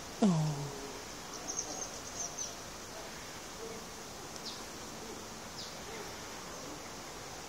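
Outdoor background hiss with a few faint, high bird chirps. Just after the start comes one short, loud pitched sound that slides steeply down in pitch.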